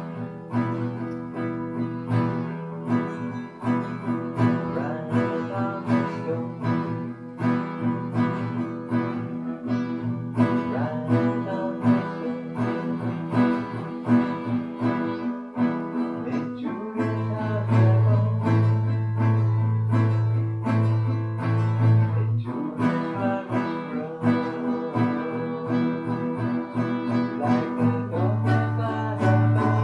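Guitar playing: a melody of quick plucked notes over held low bass notes that change every few seconds.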